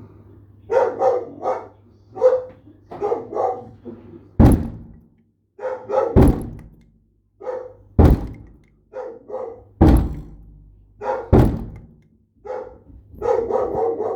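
A dog barking over and over in short runs of barks. A loud thud comes roughly every couple of seconds in between.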